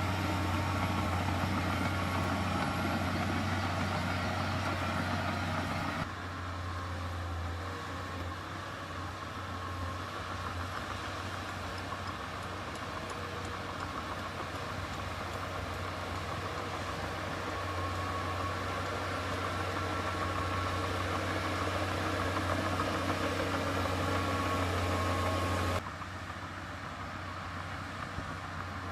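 Heavy construction-machine diesel engine running steadily. The sound cuts abruptly to a quieter take about six seconds in and again near the end.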